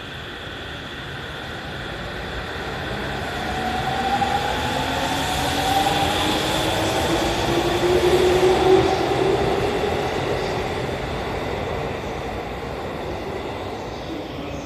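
JR East E231-series electric train pulling away and accelerating past, its traction motors giving a whine that rises steadily in pitch over the rumble of the wheels on the rails. The sound swells to its loudest about eight seconds in as the cars pass, then eases off.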